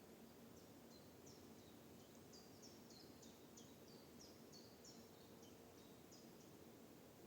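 Faint songbird calling: a quick string of short, high chirps, each dropping in pitch, lasting about six seconds over a quiet, steady forest background.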